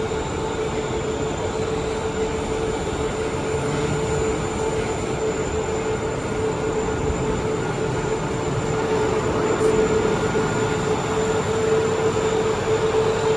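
A repaired Vacon variable-frequency drive running its test motor: a steady hum with a constant mid-pitched whine. It is running normally on test after the repair.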